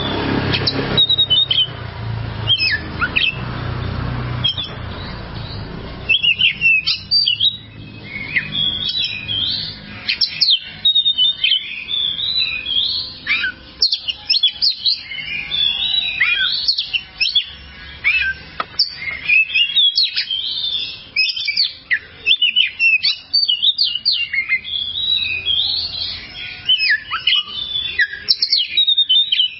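Oriental magpie-robin (kacer) singing a long, unbroken run of quick, varied chirps and whistled phrases. A low background noise lies under the song for the first few seconds.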